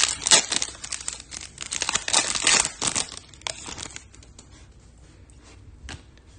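Foil wrapper of a Topps Chrome hobby pack being torn and crinkled: dense crackling for about three seconds, then a few fainter, scattered ticks.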